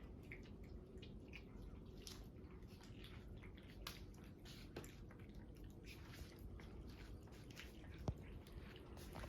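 Cats eating from their bowls: faint, irregular chewing clicks, with one sharper click about eight seconds in.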